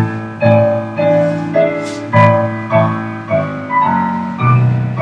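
Solo piano playing ballet-class accompaniment for battements, with chords struck about twice a second, each fading before the next.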